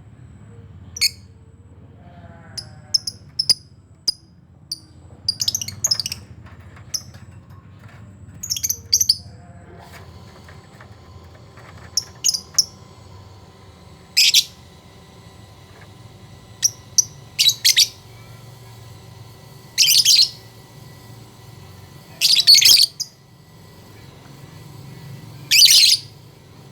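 Colony of lovebirds calling: scattered short shrill chirps, then from about halfway about five louder shrill bursts of calls a few seconds apart, over a low steady hum.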